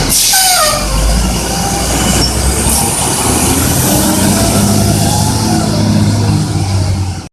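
Garbage truck running, with a burst of hiss at the start followed by brief high squeals that fall in pitch, over a steady low engine sound.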